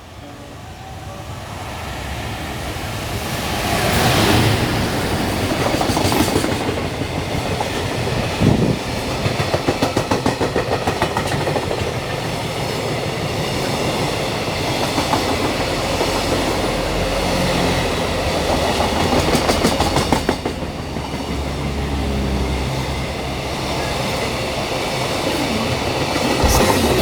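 Freight train approaching and passing at speed, getting louder over the first few seconds, then a long run of wagons with wheels clacking evenly over the rail joints.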